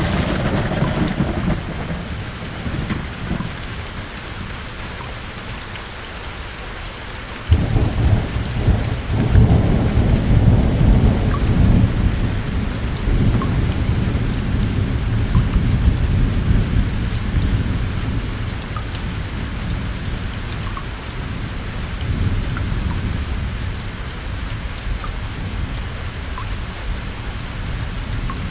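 Steady heavy rain with thunder: the rumble of a thunderclap fades over the first few seconds. About seven seconds in a second, louder peal of thunder begins suddenly and rolls on for more than ten seconds before fading back under the rain.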